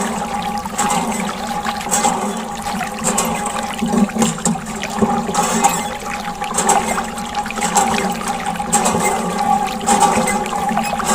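Running, splashing water with a steady hum under it and occasional small clicks.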